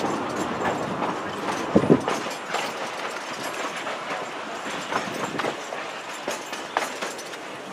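Passenger train rolling along the track: a steady rattle with irregular wheel clicks and knocks over the rail joints, growing gradually quieter.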